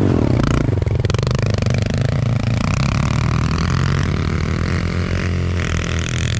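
Pit bike engine running under throttle, its pitch rising and falling as the revs change.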